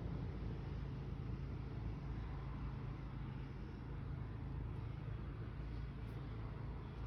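1979 Chevrolet Silverado pickup's engine idling with a steady low rumble.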